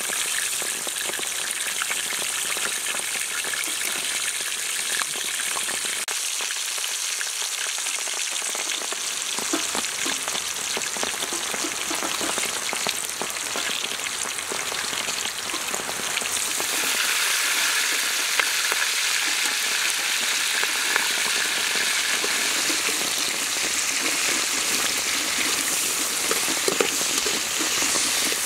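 Oil sizzling as food fries in a wok over an open wood fire: a steady hiss that grows fuller about halfway through.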